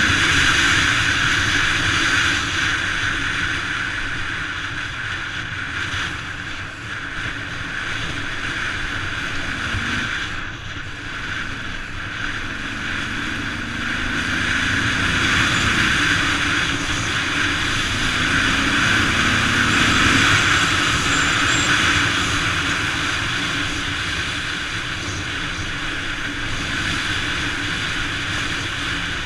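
Steady engine and propeller drone of a light propeller aircraft in flight, with a few small rises in engine pitch partway through.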